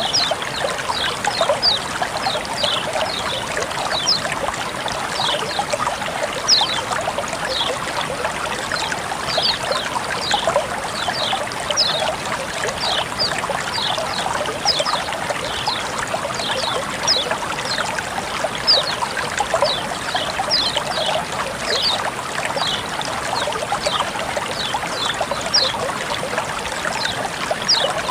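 Water flowing and trickling steadily, with a constant run of short, high-pitched plinks, a few each second.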